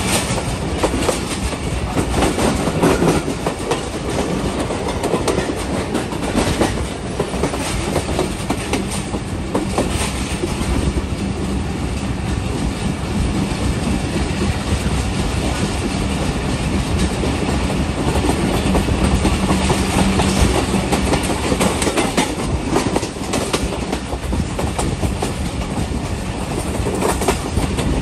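Pakistan Railways express passenger train running at speed along the track, heard from aboard a coach. A steady rumble of wheels on rails carries a low hum, with repeated knocks from the wheels passing over rail joints.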